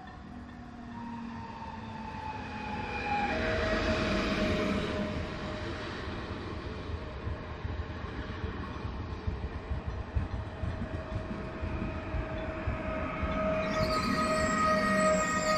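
Train moving through a station: its wheels rumble and click on the rails under a steady multi-tone whine that steps down in pitch about three seconds in, and a brief high hiss comes near the end.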